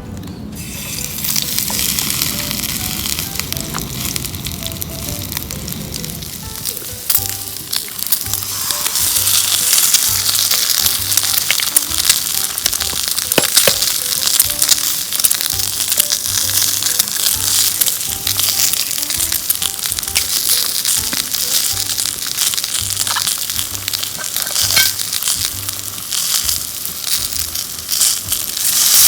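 Food frying in a pan, a steady sizzle that grows louder about nine seconds in, with occasional ticks and pops. Soft background music plays underneath.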